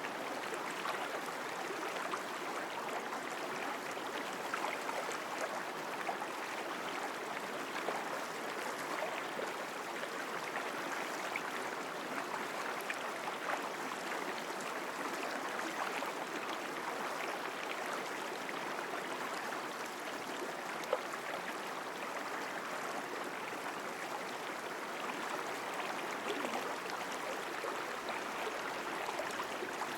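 Mountain stream flowing over rocks: a strong, steady rush of water with small splashes and gurgles, and one slightly louder splash about two-thirds of the way through.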